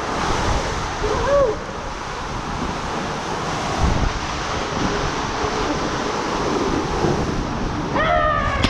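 Rushing water and wind buffeting the microphone during a ride down a water slide, loud and steady. Near the end a person gives a brief high cry.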